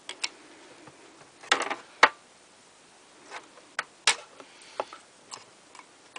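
Metal parts of a burnt-out box fan motor clicking and knocking as the motor is pried apart by hand. The taps are scattered, with a short rattle about one and a half seconds in and the loudest clacks just after two seconds and at about four seconds.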